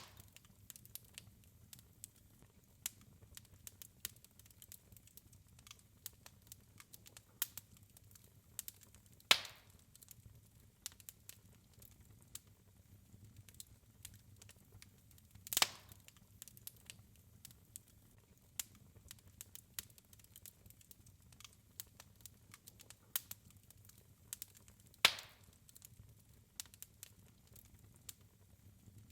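Wood fire crackling in a fireplace: scattered faint ticks and snaps, with three louder pops spread through.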